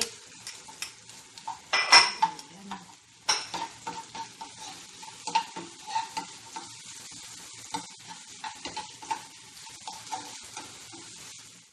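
Diced onion and garlic sizzling steadily in oil in a nonstick frying pan while a metal utensil stirs and scrapes them, with many light clicks against the pan. A louder clatter of the utensil on the pan comes about two seconds in and another just after three seconds.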